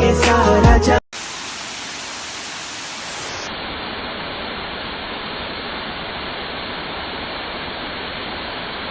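Waterfall giving a steady, even rushing noise, after about a second of music that cuts off.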